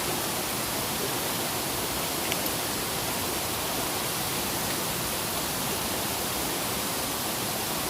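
Steady hiss of heavy rain falling, with one small tick a little over two seconds in.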